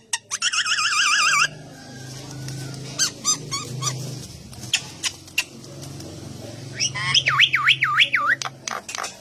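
Caged songbird calling: two loud warbling whistles that waver rapidly up and down, one near the start and one near the end, with short sharp chips in between, over a low steady hum.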